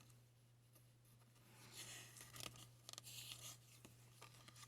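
Near silence: room tone with a low steady hum and a few faint, brief rustles and soft ticks.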